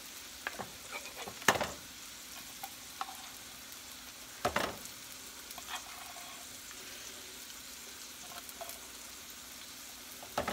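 Chicken frying in a skillet with a steady faint sizzle, while a silicone spatula scrapes condensed soup out of a metal can into a plastic bowl with small scraping clicks. Two louder knocks stand out, about a second and a half in and again about three seconds later.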